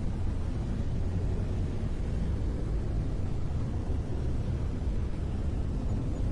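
Brown noise: a steady, deep rushing hiss, strongest in the low end and unchanging throughout.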